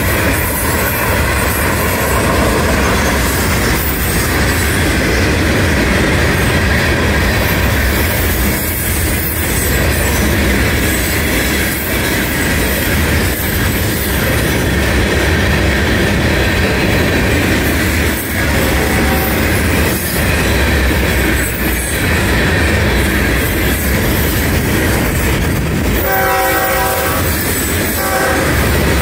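Florida East Coast freight cars rolling past at speed over a grade crossing, a steady loud rumble of wheels on rail with clickety-clack. About 26 seconds in, a multi-note locomotive horn chord starts up, breaks off briefly, and sounds again near the end. It is the horn of the opposing train approaching for the meet.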